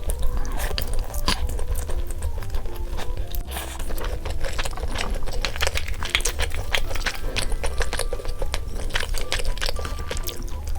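Close, crunchy chewing and biting of fried chicken, many irregular crunches throughout, with cute background music playing.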